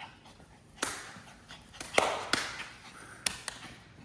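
A pet dog playing, making about five short, sudden sounds spread over four seconds.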